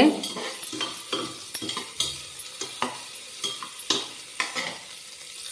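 Chopped onion frying in ghee in an aluminium pressure cooker, with a faint sizzle. A perforated metal slotted spoon stirs it, scraping and clicking against the pot at irregular moments.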